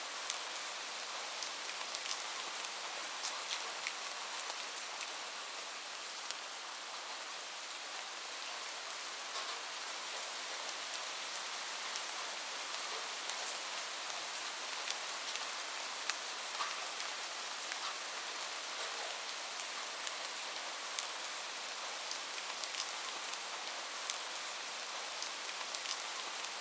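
Steady rain falling on a roof: an even hiss with scattered sharp ticks of single drops striking. No thunder.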